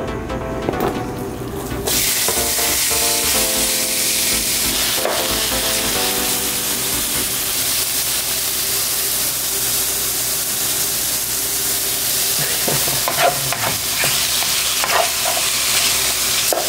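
Diced raw chicken sizzling in hot oil in a frying pan, the sizzle starting suddenly about two seconds in as the pieces hit the pan. Near the end a plastic spatula stirs and scrapes the pieces around the pan.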